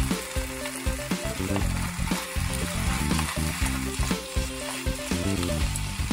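Fish cake strips, cabbage and onion in a chilli sauce sizzling in a frying pan as they are stir-fried and tossed, with frequent small clicks of the spatula against the pan. Background music with a stepping melody plays underneath.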